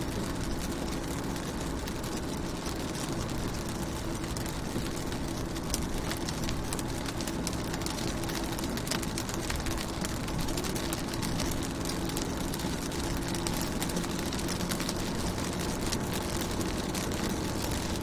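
Rain falling on a car, with many small drop impacts on the windows over a steady wash of noise, and a steady low hum underneath.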